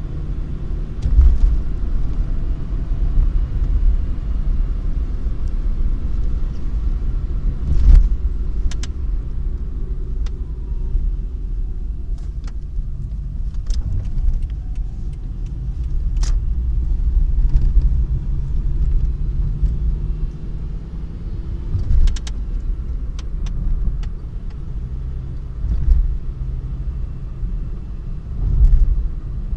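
A car running with a steady low rumble, punctuated by sharp knocks and clicks at irregular intervals and a few heavier low thumps. These knocks are the abnormal noise being recorded.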